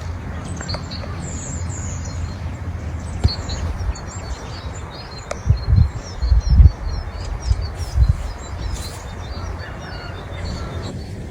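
Small birds chirping repeatedly outdoors over a steady low rumble, with a few loud low thumps near the middle.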